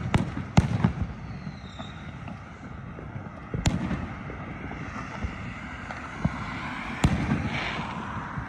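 Fireworks and firecrackers going off around the neighbourhood: sharp, loud bangs right at the start, another about half a second later, one near four seconds in and one about seven seconds in, each echoing off the houses, over a constant crackle and rumble of more distant fireworks.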